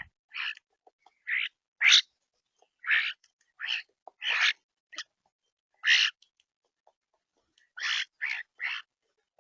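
Birds calling at a backyard feeder in snow: about a dozen short, harsh calls in irregular groups, with quiet gaps between them.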